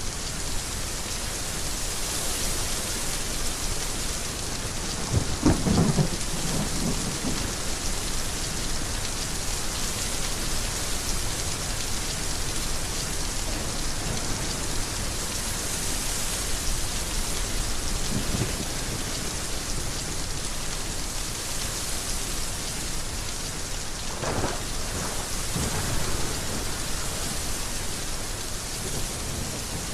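Heavy rain falling steadily, with low rumbles of thunder about five seconds in, the loudest, and again around twenty-four seconds.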